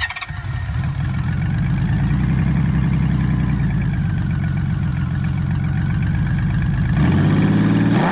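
A vehicle engine running steadily at idle, then revved up about seven seconds in.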